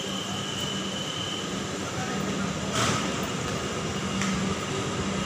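Indian Railways LHB passenger coaches rolling past along the platform: a steady rumble of wheels on the rails with a low hum. One sharp clank comes about three seconds in, and a few lighter clicks follow.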